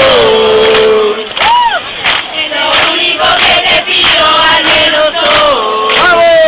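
A crowd of young people singing and chanting together loudly, with long held notes and a rising-and-falling whoop about a second and a half in.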